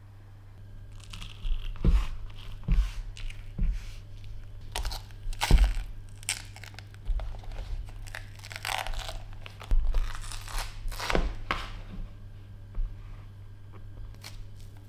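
Irregular crinkling, tearing and crunching of something being handled or broken by hand, a series of sharp crackles with rustling between them, loudest about two, five and a half and ten seconds in.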